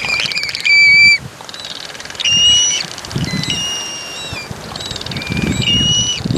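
Gulls giving repeated alarm calls: a series of high, clear, flat whistled notes of about half a second each, several birds overlapping, the loudest about 1 and 2.5 seconds in. These are warning calls at an intruder near their chick.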